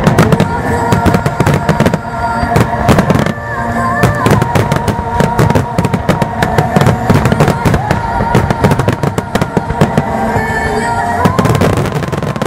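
Starmine fireworks barrage: many shell bursts in quick succession, with the music of the display playing steadily underneath.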